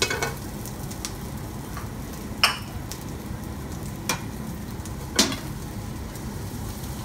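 Diced onions sizzling steadily in a hot frying pan, with three sharp clinks of kitchen utensils and dishes against the stovetop, about two and a half, four and five seconds in.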